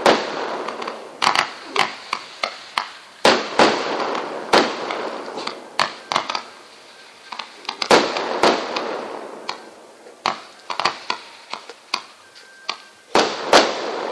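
Fireworks going off: a dozen or more sharp bangs and crackles at irregular intervals, with a hissing rush between them. The loudest bangs come about eight seconds in and near the end.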